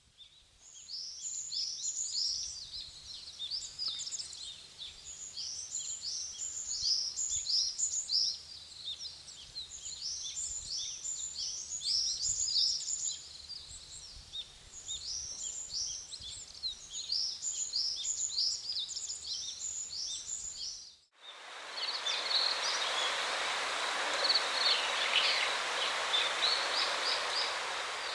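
A songbird sings short phrases of quick, high, falling notes, repeated every few seconds. About three-quarters of the way through the sound cuts, and steady rushing paddy-field water takes over, with high bird chirps above it.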